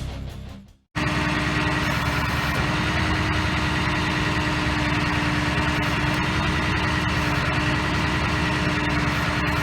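2006 Ford F450 bucket truck's engine idling steadily, with a steady whine over the idle. It starts about a second in, after the intro music fades out.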